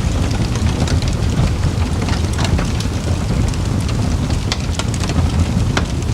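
Wood campfire burning: a steady low rumble of the flames under frequent, irregular sharp crackles and pops.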